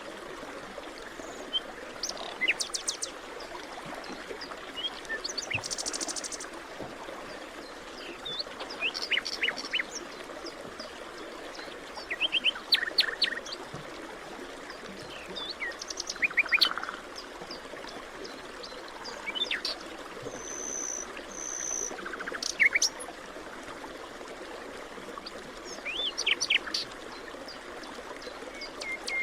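Forest birds calling and singing in short chirping phrases and whistles, several birds in turn, over a steady hiss of background noise.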